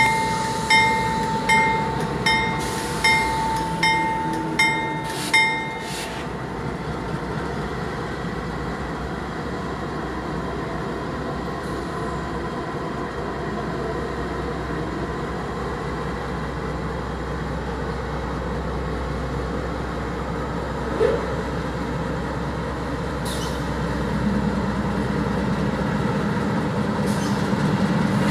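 A bell rings about eight times, the strokes under a second apart, and stops about five seconds in. Then comes the low, steady rumble of CP Rail GE AC4400CW diesel-electric locomotives slowly pulling a double-stack intermodal freight train, with a brief squeal a little after twenty seconds and the engine sound growing near the end.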